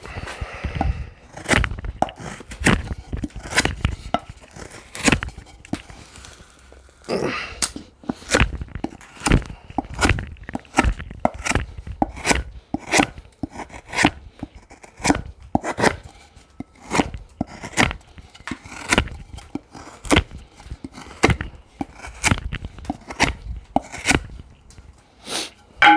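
A knife chopping hard and repeatedly into something, with sharp strikes coming one or two a second.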